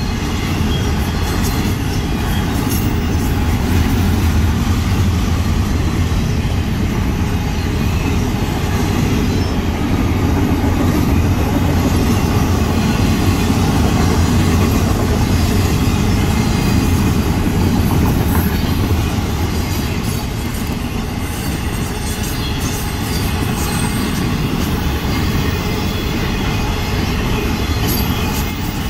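Florida East Coast Railway intermodal freight cars, double-stack container cars and then trailer-carrying flatcars, rolling past at close range: a steady heavy rumble of steel wheels on rail with occasional clicks.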